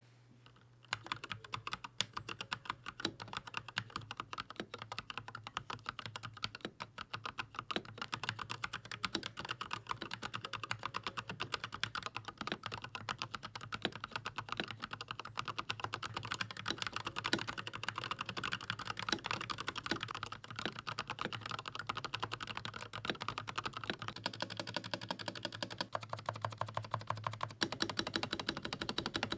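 Fast, continuous typing on a Corsair K100 mechanical keyboard with Corsair OPX optical switches, lubed with Krytox 205g0 and Permatex-greased stabilizers; the key clicks start about a second in.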